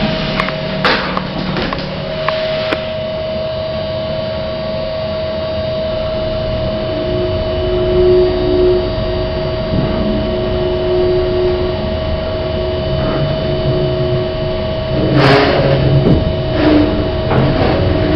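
A ThyssenKrupp passenger lift car travelling between floors: a steady hum with a constant whine from the drive and a few clicks near the start. A short rush of noise with more clicks comes near the end.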